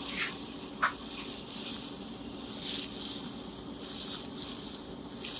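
Water splashing and pattering as a pet parrot bathes, an uneven hiss that swells and fades, with a short sharp sound just under a second in.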